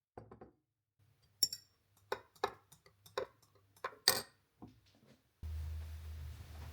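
A series of light clicks and knocks, like objects being picked up and set down on a hard surface, with two sharper knocks. A steady low hum starts suddenly near the end, like a small appliance being switched on.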